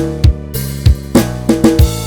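Band backing track with the guitar cut out: a drum kit beat of kick and snare hits, several a second, over steady bass and sustained chords.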